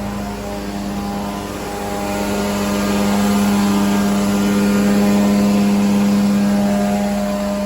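Carpet-cleaning machine running with a steady hum, growing louder for a few seconds in the middle before easing off.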